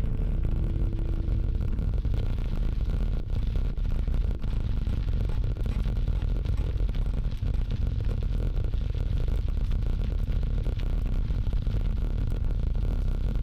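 Bicycle riding noise on a dirt trail: steady low rumble from the tyres and wind on the microphone, with scraping and rattling over the rough surface.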